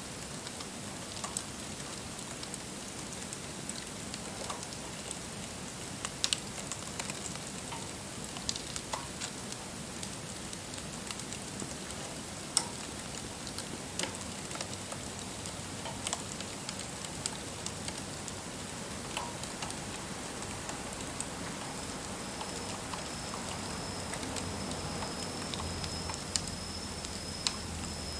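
Wood fire burning: a steady hiss with scattered crackles and sharp pops. From about two-thirds through, a thin high whine joins in.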